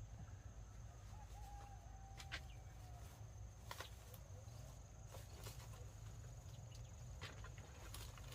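Quiet rural outdoor background with a steady low hum and a faint high insect-like drone, a brief faint call early on, and a few faint scattered clicks.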